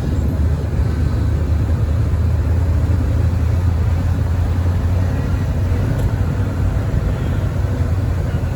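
Steady low drone of a car's engine and road noise heard from inside the cabin while driving at a constant pace.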